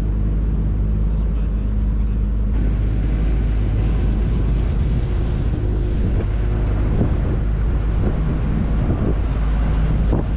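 A vehicle engine running steadily with a low, even hum, under a noisy rush. There is an abrupt change about two and a half seconds in.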